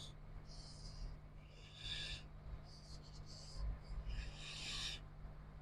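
About four short rubbing or scraping strokes, each lasting half a second to a second, over a steady low electrical hum.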